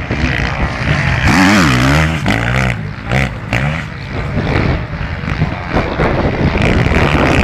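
Motocross motorcycle engines running hard. Between about one and two seconds in, one bike's engine revs rises and falls, with further engine noise and revving through the rest.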